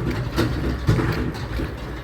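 Garbage truck's diesel engine running heavily, with sharp metallic clanks about half a second and a second in.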